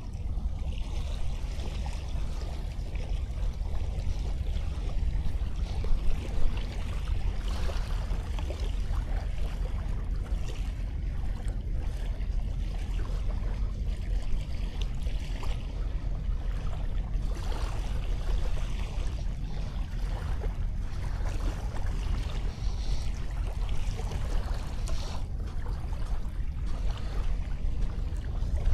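Sea waves washing onto a sandy beach in a steady hiss that swells and ebbs, over a constant low rumble of wind on the action camera's microphone. A brief louder gust or wave comes about six seconds in.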